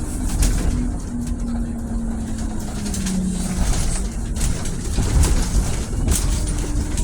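Scania city bus running, its engine a steady low rumble, with a whine that slides down in pitch between about one and four seconds in as it slows, and scattered clicks and rattles.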